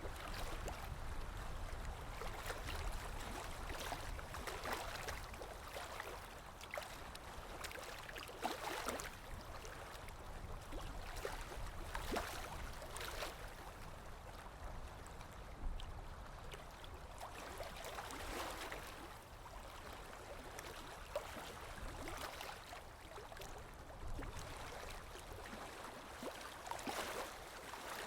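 Moving water, a continuous rush that swells and eases in irregular surges.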